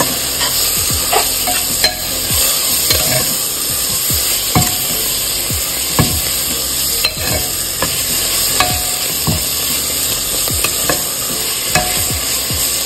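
Chopped spinach and coriander frying in masala in an aluminium pressure cooker, sizzling steadily while a metal spoon stirs them. The spoon scrapes and clinks against the pot every half second to a second.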